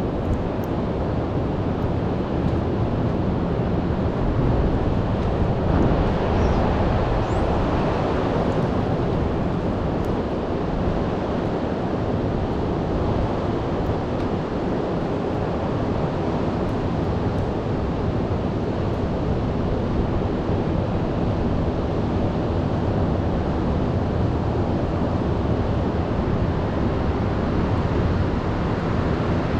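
Heavy storm surf breaking in a continuous wash, with wind buffeting the microphone.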